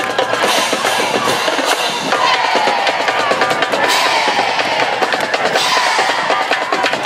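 Drums playing a dense run of bass and snare hits, with crowd voices underneath.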